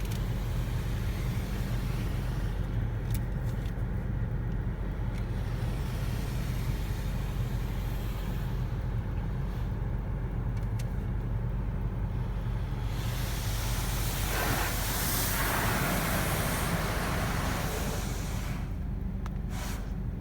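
Spot-free rinse water from a LaserWash M5 touchless car wash spraying onto the car, heard from inside the cabin as a hiss that swells and fades as the spray passes over. It is loudest about two-thirds of the way in, over a steady low hum.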